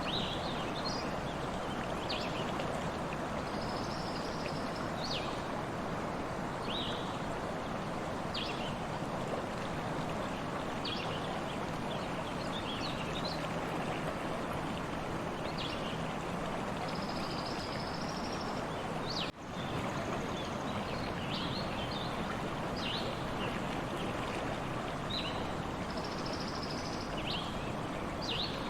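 Stream water flowing steadily, with small birds chirping over it in short repeated calls and an occasional longer high trill. The sound drops out for an instant about two-thirds of the way through, like an edit in the recording.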